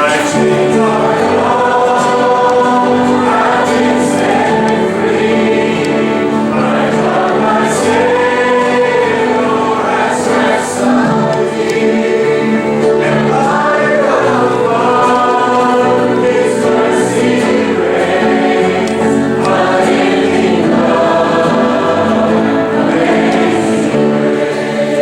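Choir singing a gospel song with sustained, swelling chords.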